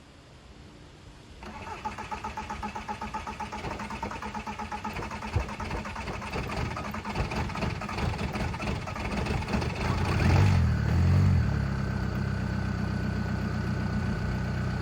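An engine being cranked by its starter with a fast, even pulsing from about a second and a half in. It catches at around ten seconds and settles into a steady idle.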